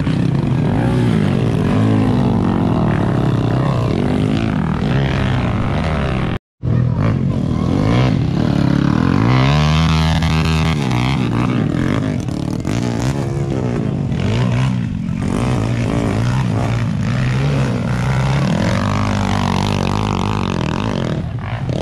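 Dirt bike engines running and revving, their pitch rising and falling repeatedly, with a split-second dropout about six and a half seconds in.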